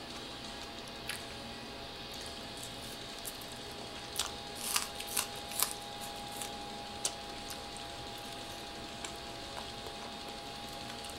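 Crisp crunching and clicks of a raw green onion rolled in ham and cream cheese being bitten and chewed. The crunches come as a cluster of several sharp ones about four to six seconds in, with a few single clicks around them, over a steady background hiss.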